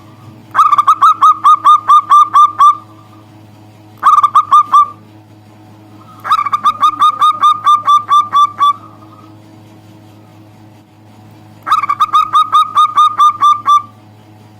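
Zebra dove (perkutut) singing: four bouts of rapid, evenly spaced staccato coos, each about two seconds long except a short second bout, with pauses between them.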